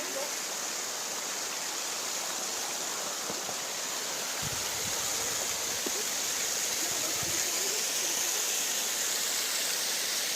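Waterfall rushing steadily, a dense, even roar of falling water that grows slightly louder through the stretch. A couple of brief low thuds come about halfway in.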